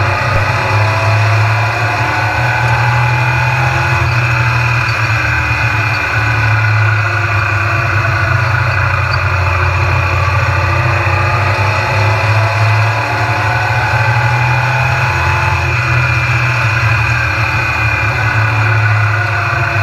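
Stock car engine running at speed around the track, a loud steady drone whose pitch slowly falls and rises again a few times.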